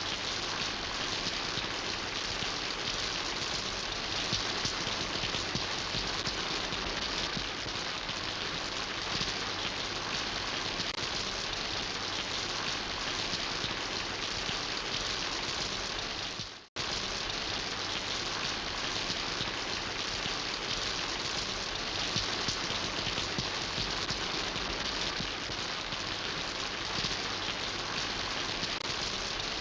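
Steady rain falling, an even dense hiss of drops. About two-thirds of the way through it dips away for a moment and cuts straight back in, like an edit join.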